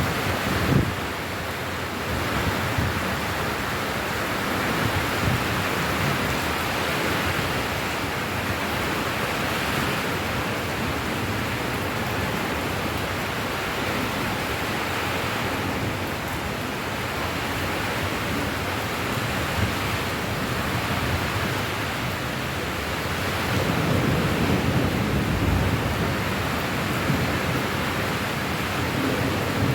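Steady rainfall as an even hiss, with a low rumbling swell about three-quarters of the way through.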